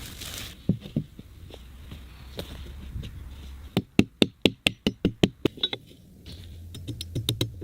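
A hand tool knocking on wood: a couple of single knocks early, then a quick, evenly spaced run of about a dozen sharp strikes about four seconds in, with more strikes starting near the end.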